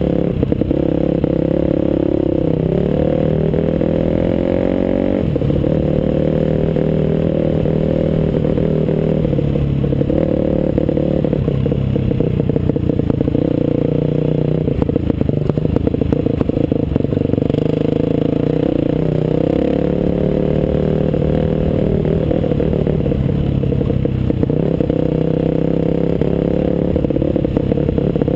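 Off-road motorcycle engine running under load, its pitch rising and falling over and over as the throttle is worked, with scattered knocks and rattles from the bike over rough ground.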